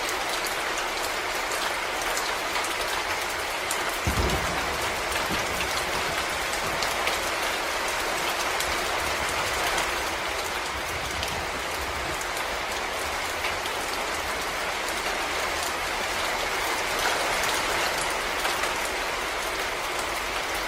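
Steady rain falling on forest leaves and ground, a dense even hiss full of fine individual drop ticks. About four seconds in, a low rumble sets in underneath and carries on.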